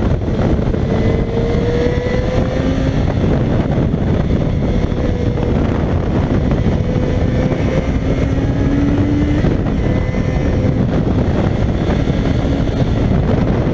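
Yamaha XJ6's inline-four engine running under way, its tone rising slowly in two long pulls, under a steady rush of wind noise on the microphone.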